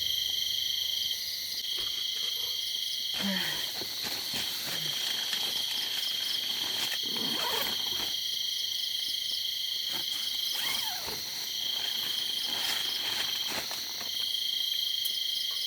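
Night-time chorus of insects: steady high trilling, with one slightly lower trill that stops and starts every second or few.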